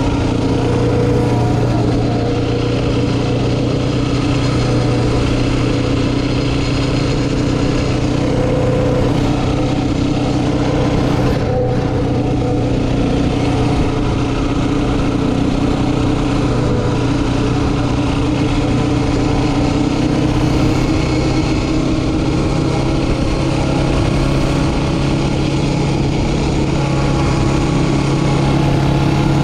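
Yamaha Raptor 700R quad's single-cylinder engine running at a steady, nearly constant speed, with a slight rise in pitch near the end.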